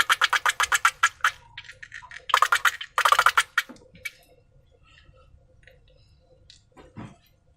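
Slime being squeezed and worked by hand, giving quick runs of sticky clicks and crackles. The fast clicking stops about a second in, two more short bursts follow, then only scattered faint clicks.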